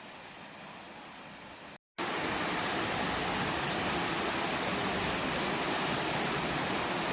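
Steady rushing of a waterfall, loud and even. It begins abruptly after a brief silent gap about two seconds in, before which there is a fainter steady hiss.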